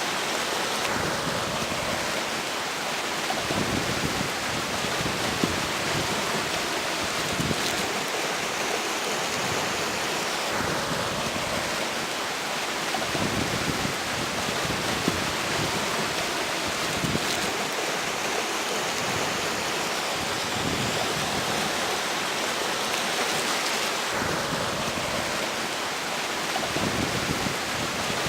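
Steady rush of a flowing river, with strong wind gusting and irregular low rumbles of wind on the microphone.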